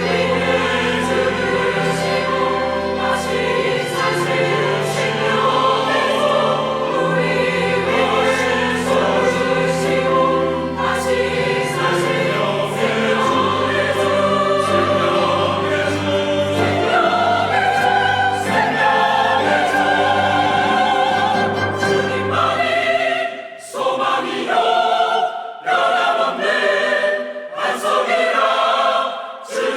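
Church choir singing an anthem with instrumental accompaniment. A full, sustained texture with a low bass line runs until near the end, when the bass drops out and the choir goes on in shorter phrases with brief breaks between them.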